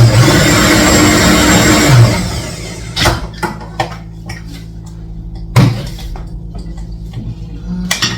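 Loud, steady motor-like noise that dies away about two seconds in, followed by a few sharp knocks and clatters.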